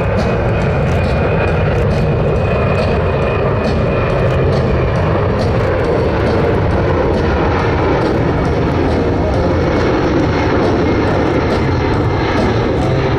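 Boeing C-17 Globemaster III's four Pratt & Whitney F117 turbofan engines, heard in a loud, steady jet roar as the aircraft flies a slow-speed pass.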